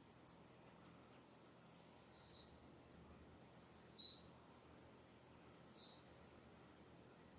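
A distant songbird calling faintly: four short, high chirps about every two seconds, most ending in a quick falling note.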